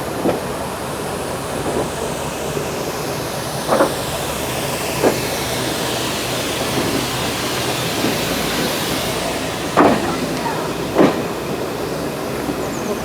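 A train running on the line: a steady rumble and hiss, broken by a handful of short sharp knocks.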